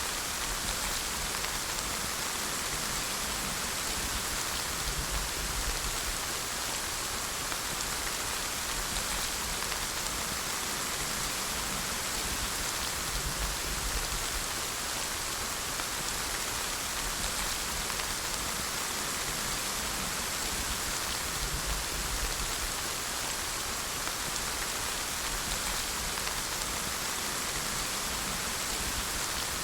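Steady rain falling and pattering on surfaces, an even hiss of many drops without pause.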